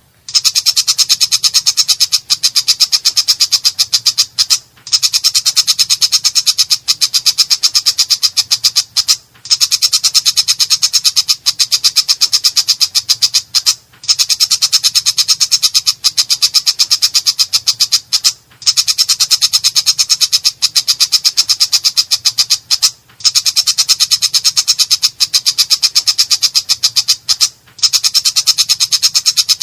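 Long-tailed shrike (cendet) calling in a harsh, rasping voice: a long run of rapid, evenly spaced notes, broken by short pauses about every four to five seconds. A faint low hum runs underneath.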